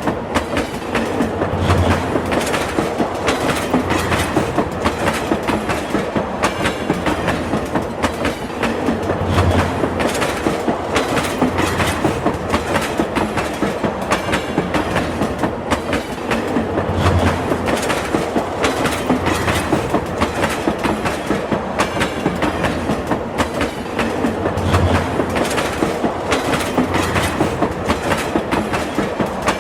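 Train wheels running over the rails in a steady, loud clickety-clack, with a heavier low thump about every seven and a half seconds.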